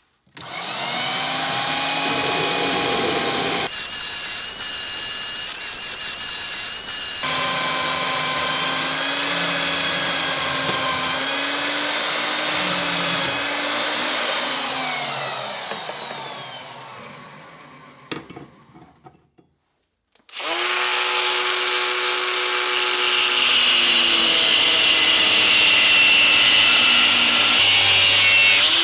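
Angle grinder running on steel bodywork, its whine dipping and wavering as it bites. About 14 seconds in it is switched off and winds down over several seconds. It starts up again sharply about 20 seconds in.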